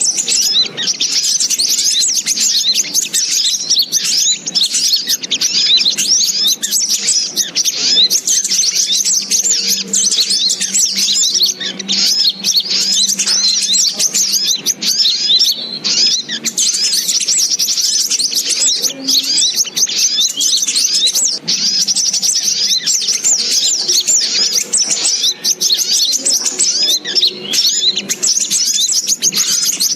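Dense, unbroken high-pitched bird chirping and twittering, a bird-lure (pikat) call recording for catching sogok ontong birds.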